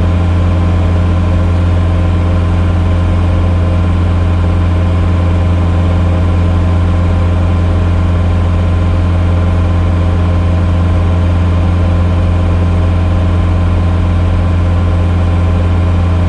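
Vehicle engine running with a steady low drone, unchanging in pitch and level.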